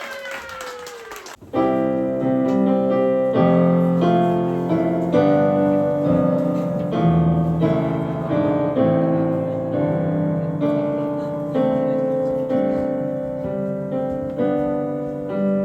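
Piano playing the slow introduction to a ballad in sustained chords, coming in about a second and a half in.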